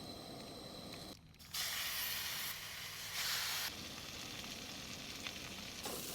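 Potatoes sizzling as they fry in a hot pan. The sizzle drops out briefly about a second in, comes back louder for a couple of seconds, then goes on more softly.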